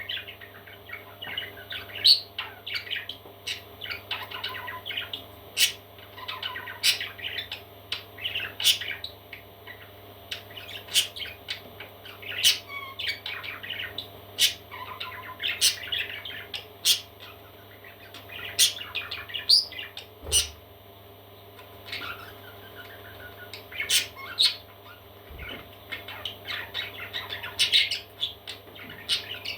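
Parrot chicks chirping and squawking: many short, sharp calls in quick clusters throughout, over a steady low hum.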